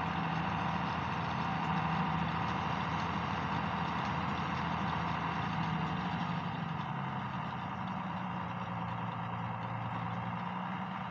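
International 886 tractor's diesel engine running steadily while working a round baler, its pitch dropping a little about seven seconds in.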